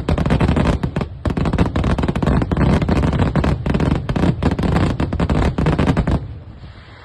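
Fireworks display going off in a dense, rapid barrage of bangs and crackles that stops about six seconds in, leaving a fading echo.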